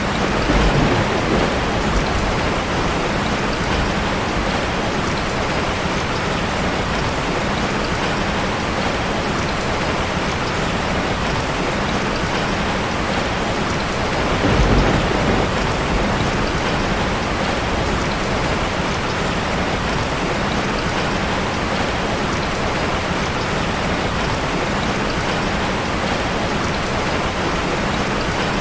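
Heavy rain falling steadily in a dense, even hiss, with two brief low thunder rumbles: one about a second in and one about halfway through.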